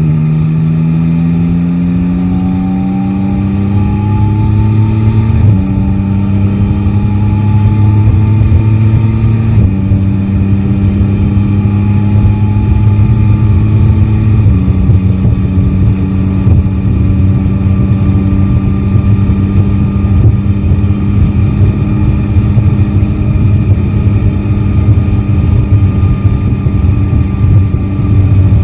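Yamaha Tracer 9 GT's inline three-cylinder engine pulling up through the gears, its pitch rising and then dropping at upshifts about five, nine and fourteen seconds in, before running at a steady cruising speed.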